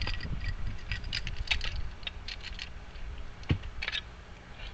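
Pin-tumbler lock pins being dumped out of a lock cylinder during a rekey: a scatter of light metallic clicks and rattles, with one sharper click about three and a half seconds in.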